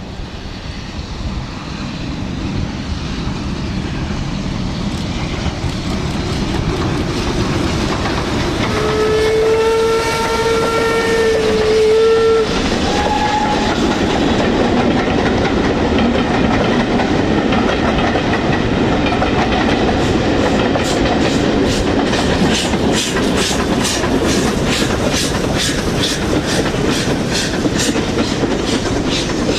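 Steam train approaching and growing steadily louder. About nine seconds in, the locomotive's whistle sounds one steady note for about three and a half seconds, followed by a brief higher note. The train then passes close by with a regular rhythmic clatter of wheels and running gear.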